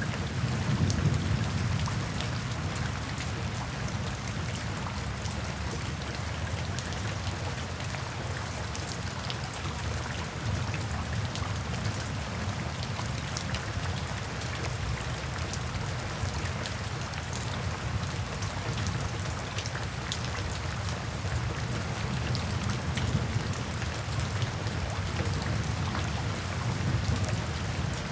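Steady rain falling, an even hiss of drops with a low rumble underneath that swells a little near the start and again near the end.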